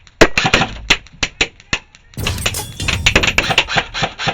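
Airsoft electric rifle, a Lancer Tactical Proline, firing a rapid string of shots at about six or seven a second. About two seconds in, a burst of hissing noise cuts in, then the rapid shots go on to the end.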